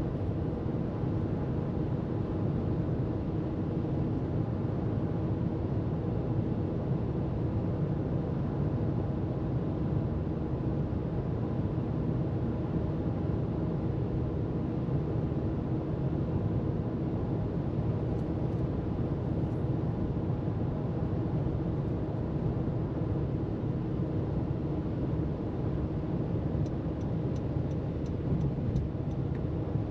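Car cruising at freeway speed: a steady rush of tyre and road noise with a low engine hum.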